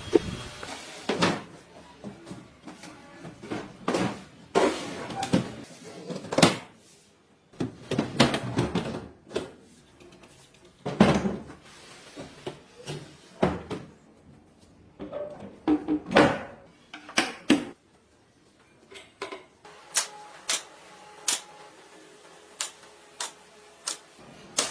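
Irregular knocks and clanks of workshop work on a car body, some ringing briefly, with a run of sharp single taps near the end.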